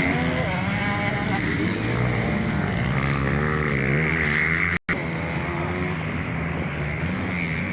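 Several 250 cc motocross bikes racing, their engines revving up and down as they rise and fall in pitch. The sound cuts out for a split second about five seconds in.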